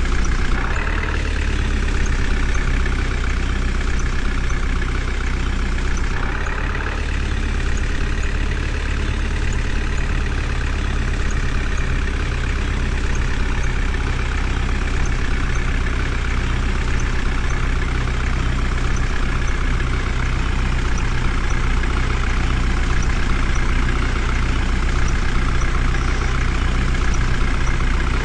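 Heavy tractor diesel engine running at a steady, unchanging speed.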